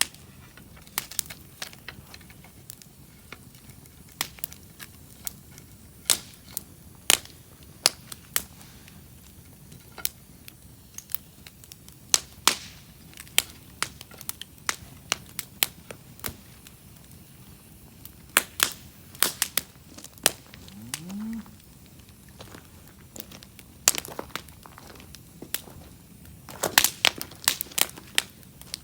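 Wood campfire crackling, with irregular sharp pops from the burning logs and a quick run of pops near the end.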